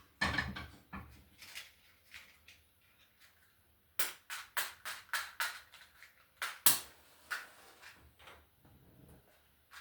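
Kitchenware being handled: a series of sharp knocks and clacks, a quick run of about five near the middle and the loudest just after.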